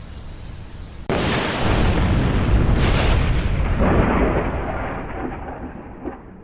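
A sudden loud thunderclap about a second in, rolling on in a couple of further surges and fading away over the next few seconds, the crackle dying before the deep rumble.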